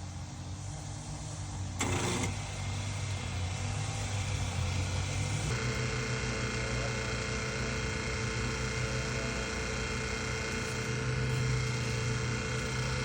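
Hydraulic power unit of a pier lifting system running steadily while it pushes a leaning brick chimney back up. The motor's note steps up about five seconds in as the push begins, and there is a brief rush of noise about two seconds in.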